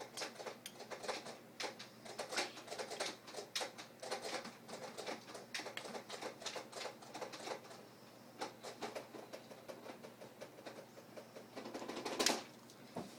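Irregular light clicks, taps and rustles from close handling while something is being lit for a homemade smoke waterfall, with a slightly louder burst about twelve seconds in.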